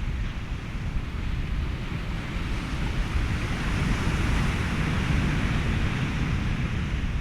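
Ocean waves washing over a bed of steady wind and white-noise hiss, with a low rumble throughout. A wave swells and brightens about halfway through, then eases off.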